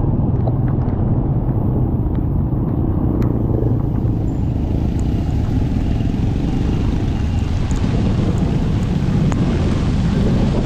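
Steady rumble of a motorcycle being ridden in heavy typhoon rain: engine and road noise mixed with wind and rain, and occasional sharp ticks.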